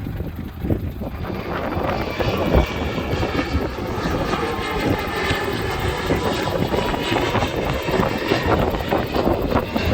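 Airbus A320neo jet engines at high thrust during a go-around, the airliner climbing away. The jet noise swells over the first couple of seconds, then holds steady, with wind buffeting the microphone throughout.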